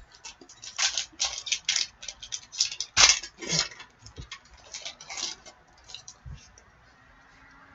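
Trading cards being handled and shuffled: a quick run of small clicks and paper rustles that thins out about six seconds in.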